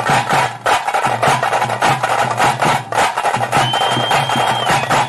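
Tase drums struck rapidly with sticks, playing the fast rhythm that goes with a tiger dance. A high, steady whistle is held for about a second near the end.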